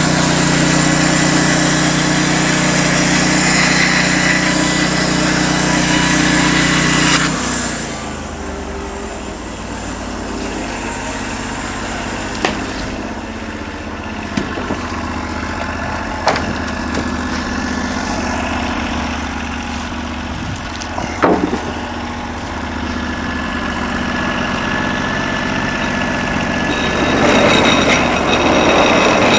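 Engine of a Norwood LM29 portable band sawmill running loud, with a high hiss, then dropping suddenly to a quieter steady run about seven seconds in. A few sharp clicks and knocks and a brief squeak follow, and it grows louder again near the end.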